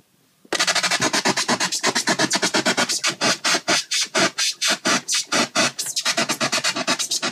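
Synthesized white noise from Ableton Live's Operator, chopped into rapid pulses of several a second and run through a frequency shifter whose frequency is being pushed by a Pioneer CDJ-2000 jog wheel, giving a loud, scratch-like stuttering. It starts abruptly about half a second in.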